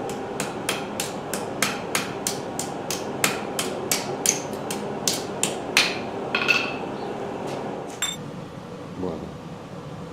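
Hammer blows on stainless steel sheet as its edges are forged thicker, a steady run of about three ringing metal strikes a second that stops about six seconds in, followed by a couple of single knocks. A steady hum runs underneath.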